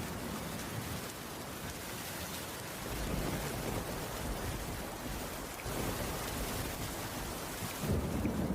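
Heavy rain falling steadily on a cabin roof, with a low rumble swelling up about three seconds in and again near the end.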